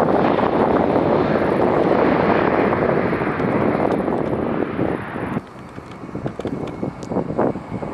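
An Airbus A320-family jet airliner landing: a loud, steady jet rumble that cuts off abruptly about five seconds in, leaving wind buffeting the microphone.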